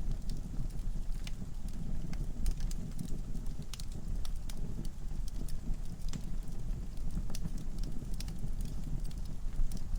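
Wood logs burning in a fireplace: a steady low rumble of flame with irregular sharp crackles and pops scattered throughout.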